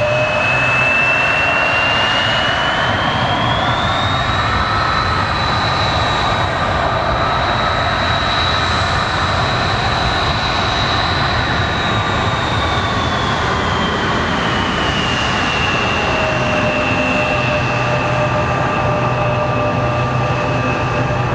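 Jet aircraft engines running over a steady rumble, their high whine rising in pitch over a few seconds, holding, then falling back near the end.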